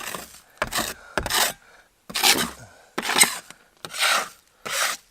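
Metal scraper pushed in repeated strokes under old carpet and its adhesive on a boat deck, about seven rasping scrapes in a row. The carpet is lifting off easily.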